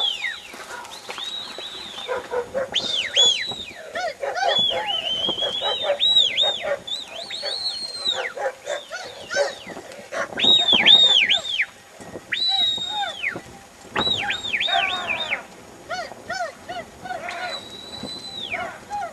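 Birds calling: short, high chirps that rise and fall, in quick runs of two or three, repeating on and off.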